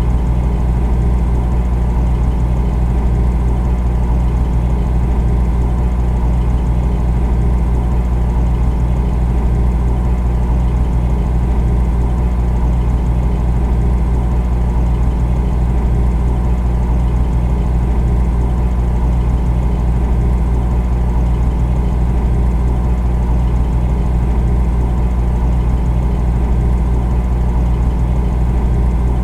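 Refrigerator running with a steady, unchanging low hum, deepest in the bass, with a few faint steady tones above it.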